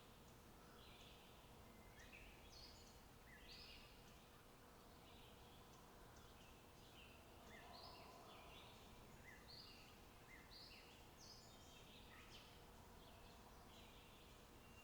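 Faint birdsong in the open countryside: many short chirping notes from more than one bird, several each second, over a low steady hiss.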